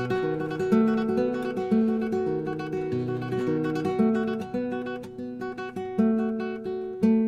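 A handmade classical guitar played as a sound test of the newly built instrument: a run of plucked notes that ring on, a melody over bass notes, several notes a second.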